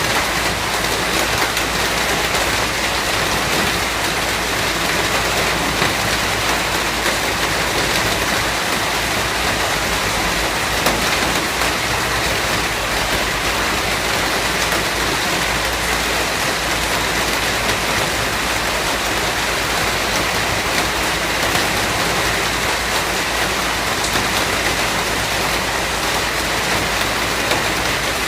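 Steady heavy rain: a dense, even hiss of rainfall with many drops spattering on surfaces.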